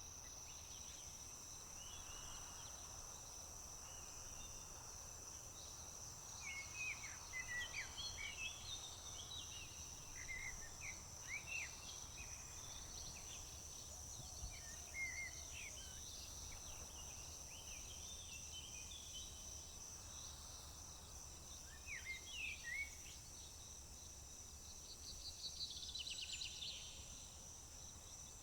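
Summer field ambience: a steady, high-pitched drone of insects such as crickets, with scattered short bird chirps in several bursts and a fast, buzzy bird trill near the end.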